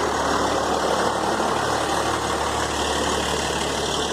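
Engine of a 1991 Dodge Ram Cummins, a 5.9-litre turbo-diesel inline-six, idling steadily.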